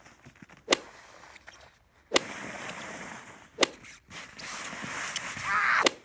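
Four sharp whip-like cracks, each about a second and a half apart, with a hissing noise between them that grows louder near the end.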